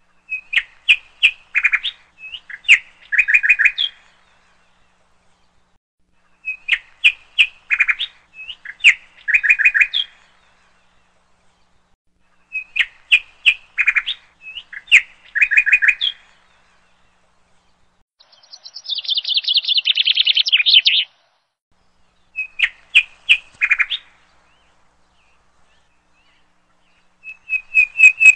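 A songbird singing in about six repeated phrases of quick chirps and trills, each a few seconds long with short silent gaps between. About two-thirds of the way through, one phrase is a denser, buzzy trill.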